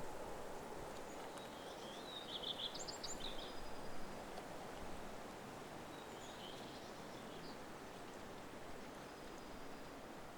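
Woodland ambience: a steady rushing background with a songbird singing a short, high, chirpy phrase about two seconds in, and a fainter phrase around six seconds in.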